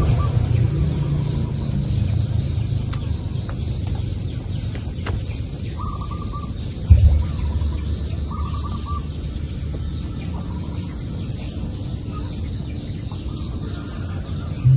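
Birds calling: a short trill repeated a few times and runs of quick high chirps, over a steady low rumble. A single sharp thump comes about seven seconds in.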